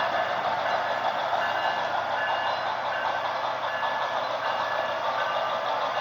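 Model locomotives running on their track with digital diesel and steam sound from Tsunami sound decoders playing through their small onboard speakers, a steady noisy rumble with short high tones coming and going on top.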